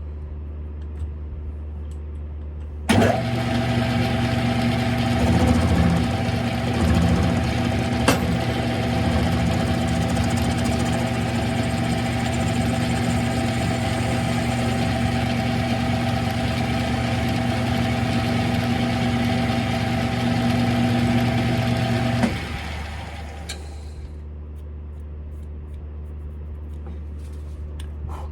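Smithy CB-1220XL 3-in-1 lathe switched on about three seconds in, running steadily with a mechanical whine and cutting noise while facing the transmission fill plug, then switched off about 22 seconds in and spinning down. A low steady hum sits underneath throughout.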